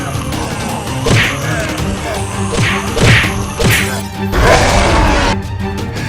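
Fight sound effects: several sharp whacks and swooshes, with a burst of crashing noise about four seconds in, over background music.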